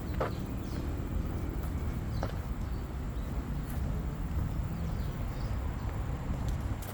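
Footsteps of a person walking on a trail: a few short, crisp steps over a steady low rumble.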